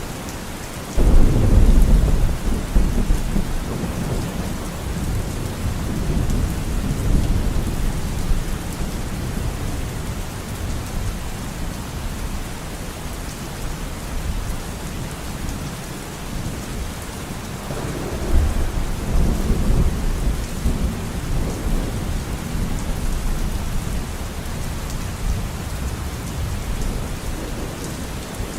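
Steady rain falling, with a sudden loud rumble of thunder about a second in that rolls on and fades over several seconds, and a second, weaker rumble of thunder about two-thirds of the way through.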